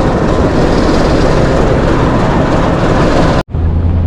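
Loud, steady rumble of a moving train. It cuts off abruptly about three and a half seconds in and gives way to a steady low hum.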